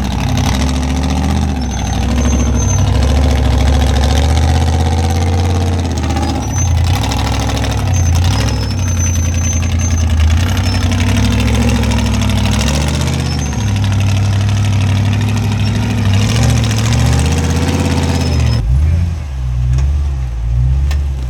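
An off-road rig's engine running loud while rock crawling, its revs rising and falling as the throttle is worked, then easing off near the end.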